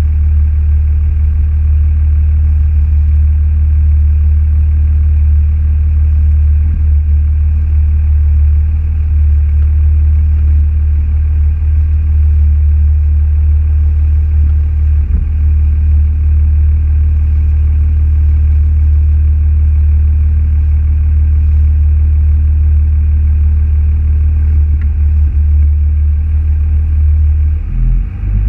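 Car engine running with a steady low drone that changes briefly near the end.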